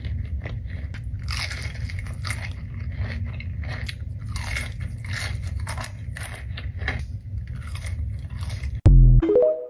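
Close-up eating: crunchy biting and chewing, many short crackling crunches over a steady low hum. Near the end a brief loud low burst and a short rising tone cut it off.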